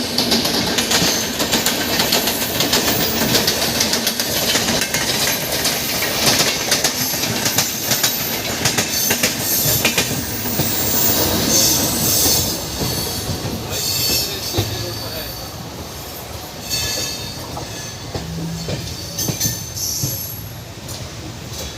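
Passenger train running past at speed, its wheels clattering over the rails in rapid clicks, loud at first and fading after about two-thirds of the way through.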